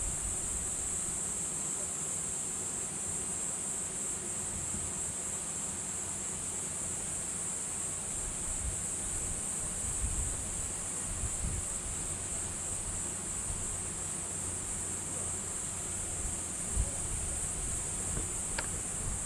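Insects, cricket-like, chirring in a steady, unbroken high-pitched drone, with some low rumble underneath.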